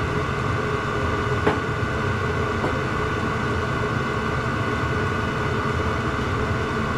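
Diesel parking heater running: a steady hum with a thin whine from its combustion blower, and a single click about a second and a half in.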